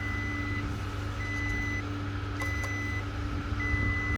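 Electronic warning beeper sounding a steady high-pitched beep four times, each about half a second long with equal gaps, over a constant low hum.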